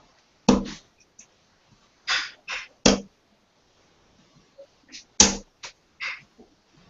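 Darts striking a dartboard: a series of short, sharp thuds, with three in quick succession about two seconds in and another cluster near the end.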